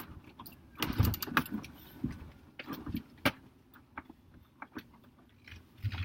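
A string of irregular clicks, knocks and short rattles inside a vehicle's cabin, loudest about a second in and again around three seconds in, over a faint low rumble.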